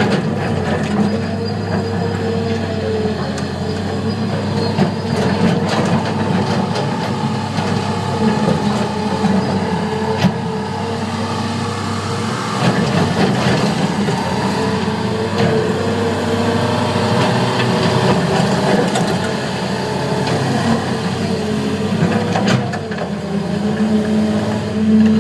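Heavy diesel earthmoving engines running steadily, from a Cat 325 excavator and a Terex TS14 scraper working together, with occasional knocks and clanks.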